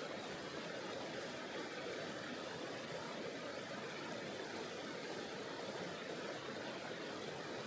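Tonghou River flowing: a steady, even rush of running water that holds the same level throughout.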